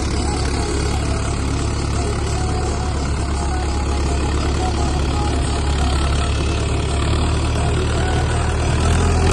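Tractor engine running steadily at idle with a deep, even drone, getting a little louder near the end.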